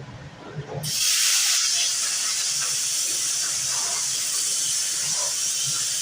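Plasma cutter firing up about a second in and cutting through steel frame-rail plate with a loud, steady hiss.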